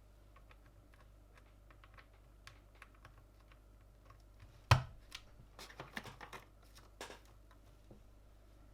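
Light plastic clicks and taps of a mechanical keyboard being assembled with Gateron red switches and keycaps, with one much louder sharp snap a little past halfway, followed by a quick run of clicks.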